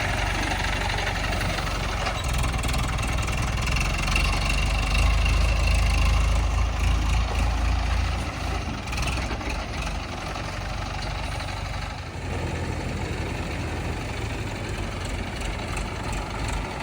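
Heavy diesel engine running, working harder and louder from about two seconds in to about eight seconds in, then settling to a lower, steadier run after about twelve seconds.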